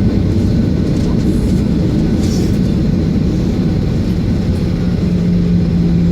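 Aircraft rumbling on the ground before takeoff, a loud, steady low roar, joined about five seconds in by a steady low hum.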